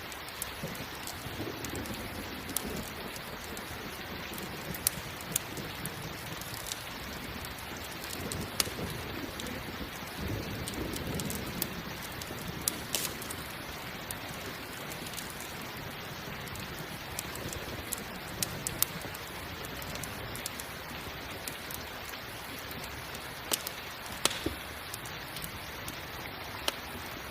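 Steady rain with a crackling campfire: an even hiss of rain, scattered sharp pops and crackles, and low rumbles that swell up twice.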